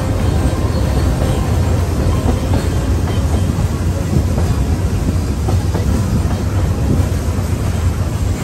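Narrow-gauge heritage steam train running slowly, a steady low rumble of carriage wheels on the rails, heard from aboard an open-sided carriage.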